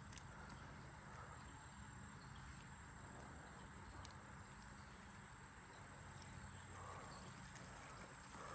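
Near silence: faint outdoor ambience with a thin, steady high-pitched tone.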